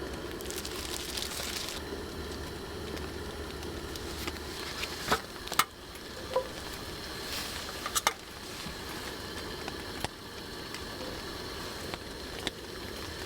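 Cookware clicking and knocking a few times over a steady hiss, at a propane camp stove as cooking begins.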